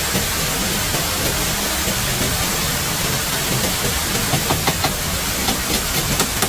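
Steady, even hiss of noise with several sharp knocks in the second half.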